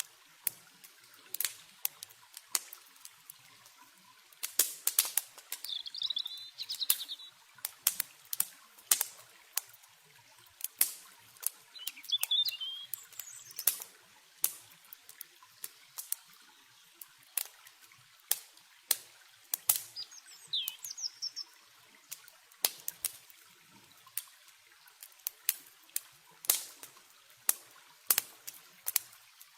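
Campfire crackling with irregular sharp pops and snaps over a faint hiss of flowing river water, with short bird chirps now and then, about four times.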